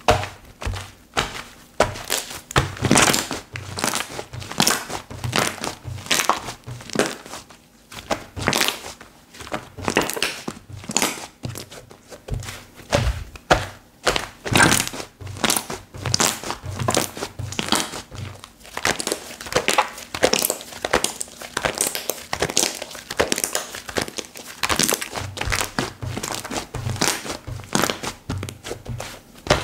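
Hands squishing, pressing and stretching slime, making repeated irregular crackling squishes.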